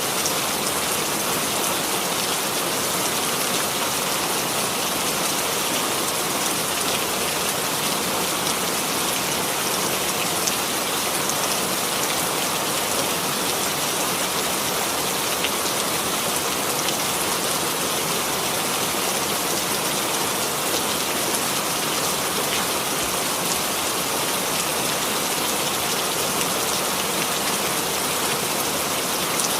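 Steady rain falling on a surface, an even hiss of many fine drops with no thunder.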